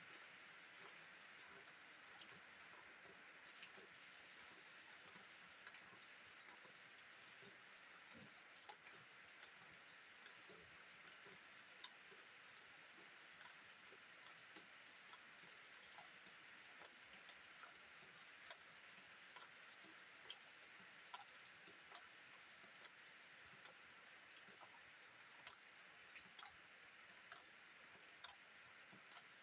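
Faint steady rain: an even hiss with individual drops landing as scattered sharp ticks, roughly one or two a second.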